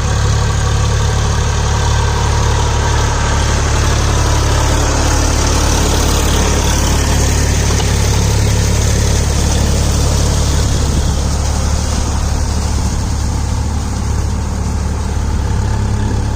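Massey Ferguson 7250 tractor's diesel engine running steadily with a deep, even hum.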